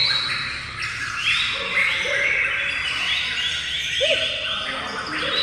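Songbirds chirping, many short, repeated calls overlapping.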